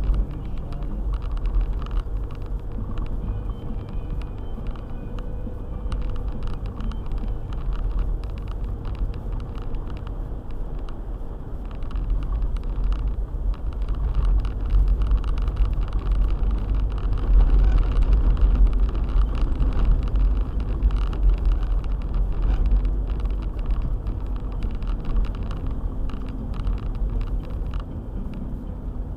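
A four-wheel-drive car driving on a snowy road: a steady low rumble of engine and tyres with many small ticks over it, growing louder for several seconds past the middle before easing again.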